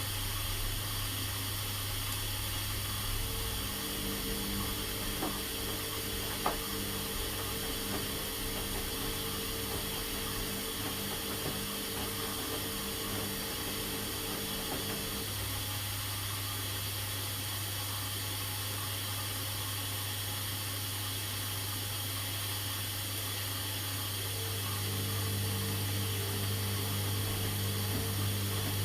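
Washing machines running a 40 °C delicates cycle: a steady hiss and low hum, with a motor whine that starts a few seconds in, stops about halfway through and comes back near the end. There is a single click a few seconds after the whine begins.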